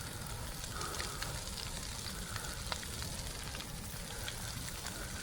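Brush pile burning: a steady hiss with many scattered small crackles and pops.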